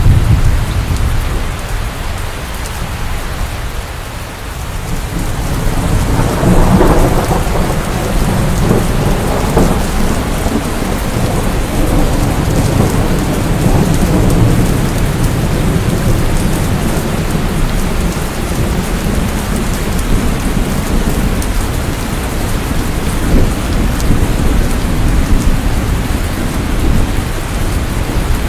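Rain falling steadily with rolling thunder: a low rumble swells about six seconds in and rolls on under the rain.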